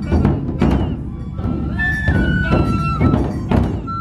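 Festival drum-procession music: large dō taiko drums struck in a steady beat, about two strokes a second. A high bamboo flute melody comes in about two seconds in.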